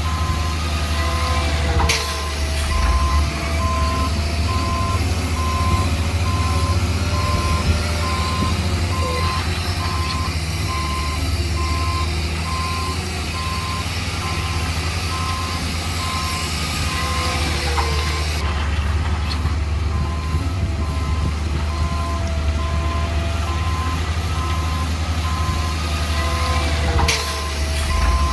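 Heavy construction machine's diesel engine running, with its reversing alarm beeping on and off at a steady pace; sharp clanks about two seconds in and near the end.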